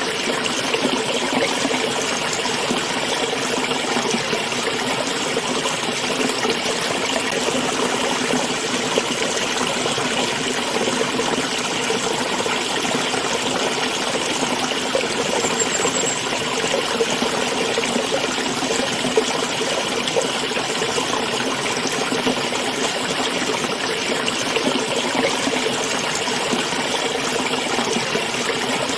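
A small stream running steadily, a continuous trickling water noise.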